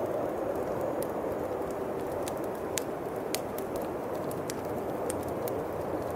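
Campfire crackling with scattered sharp pops over a steady rush of wind.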